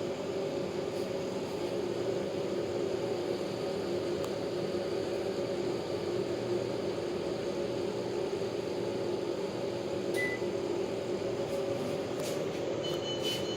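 Panasonic CS-PC9MKJ split air conditioner's indoor unit running steadily, a constant fan hum with a low drone in a small room. A brief high beep sounds about ten seconds in.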